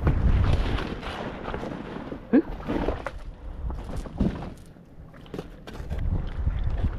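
Low wind rumble on the microphone, with one short, sharp, loud sound about two and a half seconds in and a smaller one a couple of seconds later.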